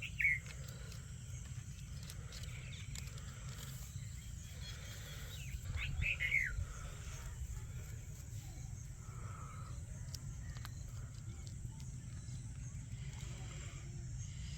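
Green ringneck (rose-ringed) parakeet giving a short, falling squawk right at the start and a quick pair of falling squawks about six seconds in, over a steady low hum.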